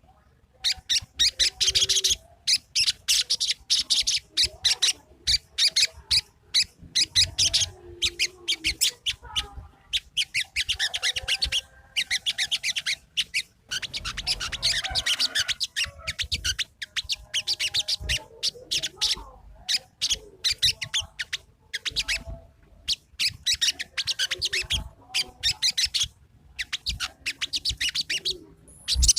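Sogon bird singing: rapid runs of short, high chattering notes, broken by brief pauses, from a recording used to provoke a sogon that is reluctant to sing.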